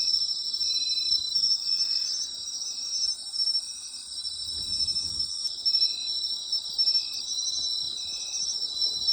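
A night chorus of autumn insects, several calling at once in different high pitches. One repeats short chirps in a steady, even rhythm of a little over one a second, over continuous trilling. A faint low rumble passes briefly about halfway through.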